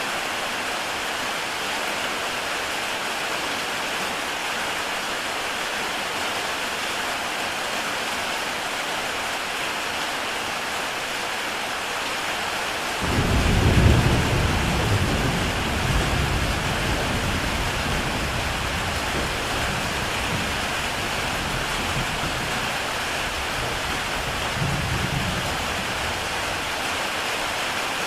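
Heavy rain falling steadily on a tile roof. About halfway through, a deep roll of thunder breaks in, loudest at first and then rumbling away over the next ten seconds, with a smaller swell near the end.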